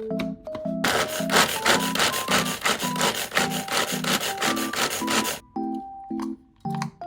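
Kitchen knife cutting quickly on a wooden cutting board, about four or five rhythmic scraping strokes a second. It starts about a second in and stops abruptly about five and a half seconds in, over soft background piano music.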